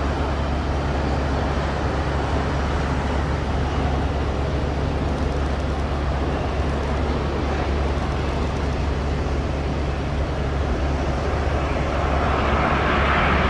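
Boeing 787-10 airliner landing, its jet engines giving a steady roar that grows louder near the end.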